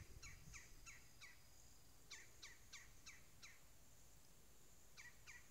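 A songbird singing faintly: short runs of quick downslurred notes, about three a second, in three bouts with pauses between.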